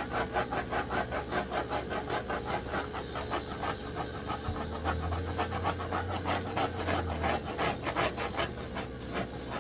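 A dog panting rapidly and steadily, about four breaths a second. A low hum joins for a few seconds in the middle.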